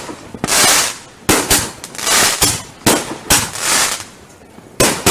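Fireworks going off in quick succession: a string of sharp bangs, roughly one every half second to second, with stretches of crackling between some of them.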